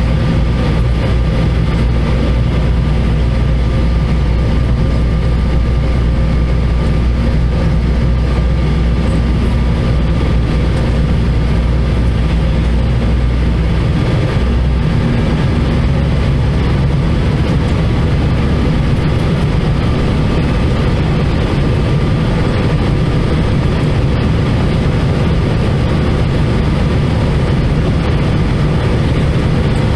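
Airbus A320-214 cabin noise heard from a window seat over the wing: the steady drone of its CFM56 engines and the airflow, with a few steady hum tones. The deepest rumble drops away about halfway through.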